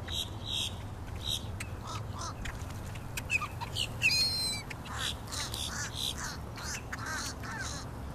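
A flock of park birds, ducks among them, calling as they are fed: many short calls overlapping, with one louder call about four seconds in, over a steady low rumble.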